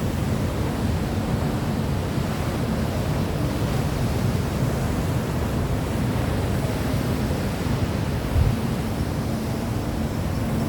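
Steady rushing noise of wind and surf, heaviest at the low end, with a brief low thump about eight seconds in.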